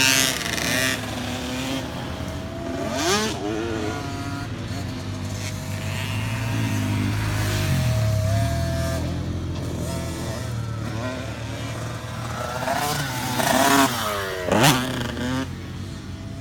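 Motocross dirt-bike engines revving up and down as they ride, with louder bursts of revving about three seconds in and again near the end.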